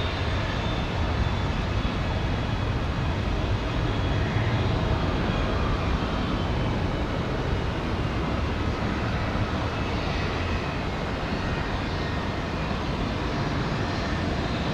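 Jet airliner engines at high power: a steady rumble and rush of noise with a faint high whine, as of an airliner on its takeoff run or climb-out.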